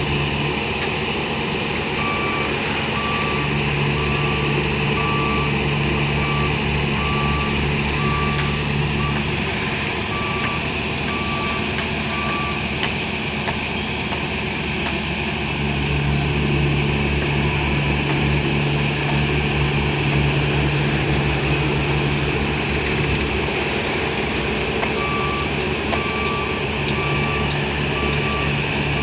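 A heavy construction vehicle's reversing alarm beeping at an even pace for about ten seconds, stopping, then starting again near the end, over the steady running of its engine, which swells and eases as the machine works.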